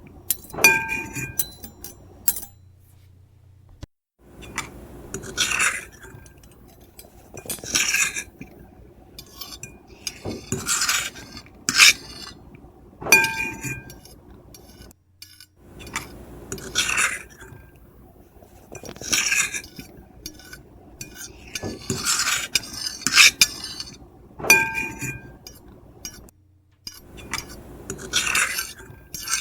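Metal fork and knife scraping and scratching across a plate in repeated short strokes every second or two, with the plate now and then giving a brief ringing note.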